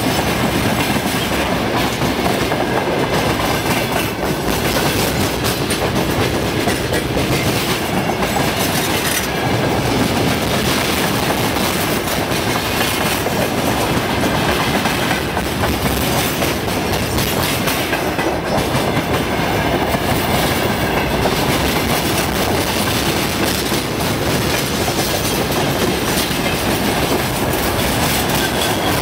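Freight train's wagons rolling past, a loud, steady rumble with wheels clacking over the rail joints.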